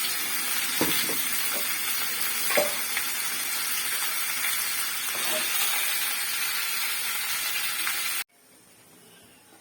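Chicken sautéing in hot oil in a pan: a steady sizzle with a few light knocks of the stirring spoon. It cuts off suddenly near the end.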